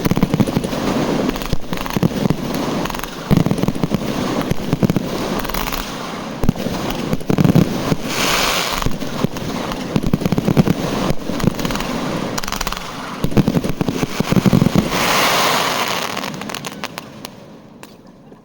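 Fireworks going off in a dense barrage of overlapping bangs and crackling, dying away over the last two seconds.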